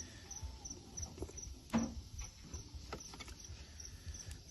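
Crickets chirping steadily, about two or three chirps a second, over a low rumble, with a few sharp knocks of handling, the loudest about two seconds in.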